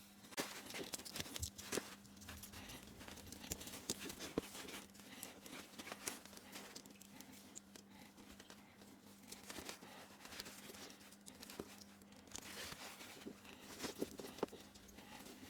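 Faint, irregular clicks, taps and rustles of small objects being handled, over a steady low hum.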